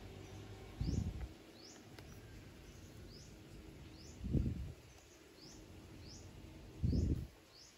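A bird repeating a short rising chirp about every 0.7 seconds. Three short low thumps, louder than the chirps, come about one, four and seven seconds in as the stiff pages of a restaurant menu are handled and turned.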